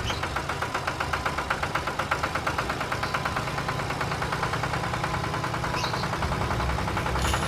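A small engine running steadily with a rapid, even knocking rhythm, like a tractor idling.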